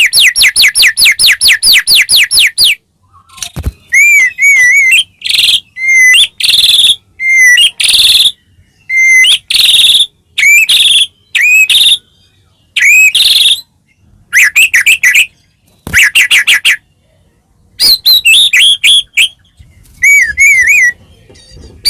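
White-rumped shama singing a loud, varied song. It opens with a fast run of about eight repeated down-slurred notes a second, then goes on in short phrases of sliding whistles and harsh rasping notes, separated by brief pauses.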